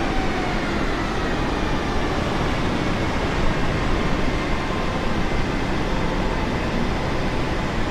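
Jet airliner after landing: a steady rumble with a faint engine whine that falls in pitch during the first second, then holds level as the engines wind down.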